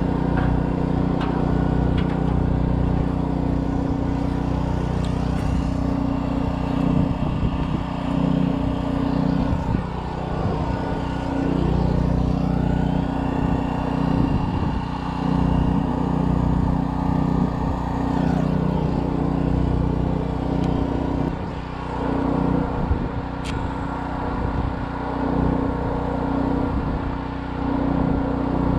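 Briggs & Stratton Storm Responder portable generator running steadily under the load of a Chicago Electric 80-amp inverter stick welder, with the crackle and hiss of the welding arc over the engine hum.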